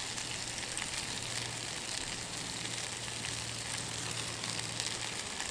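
Beef and shallots sizzling steadily in hot oil in a stone bowl over a campfire, with a few faint crackles.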